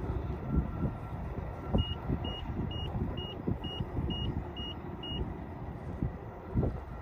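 InMotion E20 electric unicycle's alert beeper sounding eight short high beeps, about two a second, over wind buffeting the microphone and tyre rumble.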